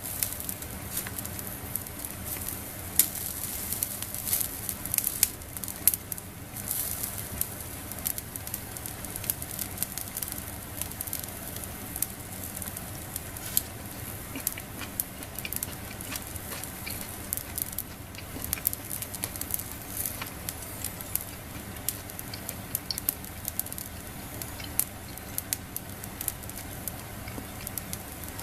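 Food sizzling on a wire grill net over a small fire in a fire pit, with frequent sharp crackles and pops throughout.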